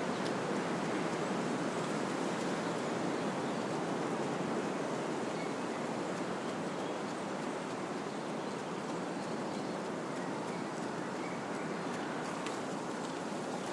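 Wind blowing through trees, a steady rush of rustling leaves that eases slightly after the first few seconds.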